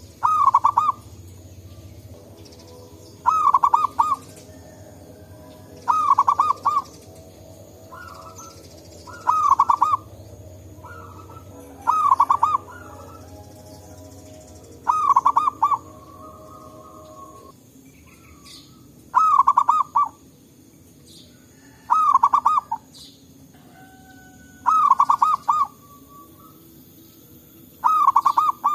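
Zebra dove (perkutut) cooing: a short phrase of quick soft coo notes, repeated ten times about every three seconds, with fainter calls in between.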